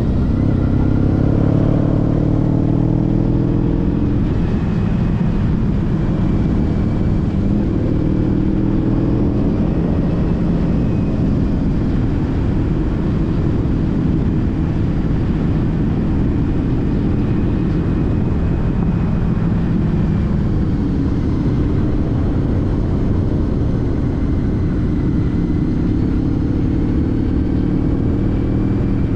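A Honda CTX1300's V4 engine running while the bike is ridden, its pitch rising and falling with the throttle, over a constant rumble of wind and road noise.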